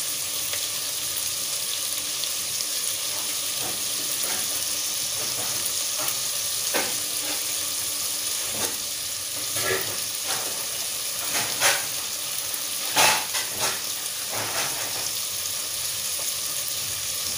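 Mixed vegetables and masala paste sizzling steadily in hot oil in an aluminium pot, with a few sharp clicks scattered through.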